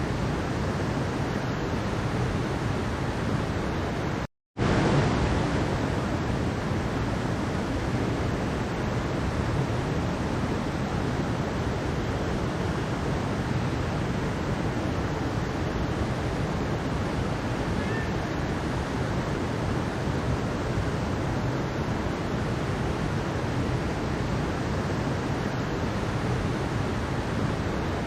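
Mountain stream water rushing steadily over rocks, an even wash of sound that drops out to silence for a split second about four seconds in.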